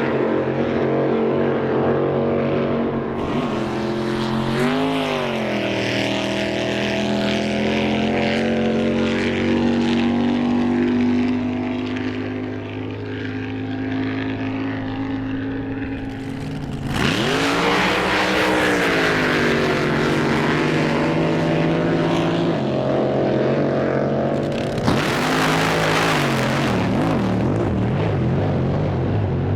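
Drag boat racing engines running loud, with a harmonic, rough note, blipped up in pitch and back down about five seconds in and again around seventeen seconds in. A loud hissing rush rides over the engine twice in the second half.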